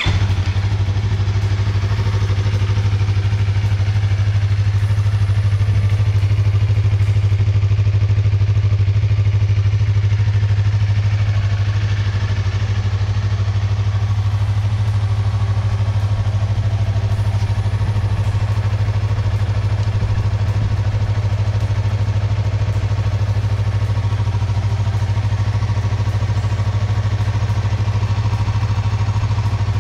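2020 Yamaha MT-03's parallel-twin engine idling steadily.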